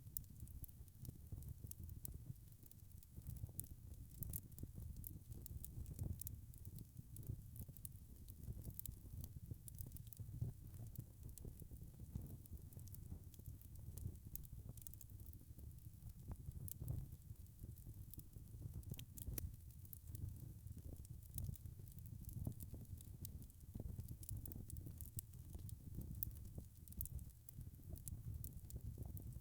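Wood fire burning in a fireplace: frequent small, irregular crackles and snaps over a low, steady rumble of the flames.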